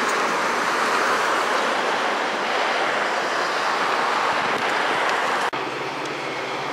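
Metra commuter train of bilevel passenger cars rolling past, a steady rushing noise of wheels on rail. It cuts off sharply about five and a half seconds in, giving way to a quieter steady hum.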